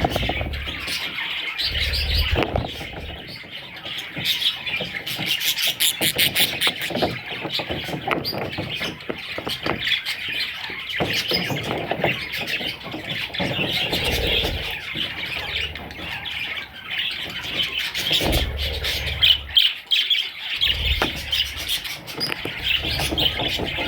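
Budgerigars chirping and chattering continuously, with short squawks mixed into their warbling and a few low thumps.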